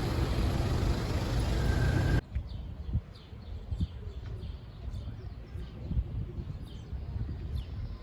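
Small birds chirping repeatedly in short, falling calls over a low background rumble. Before them, a loud steady hiss lasts about two seconds and cuts off abruptly.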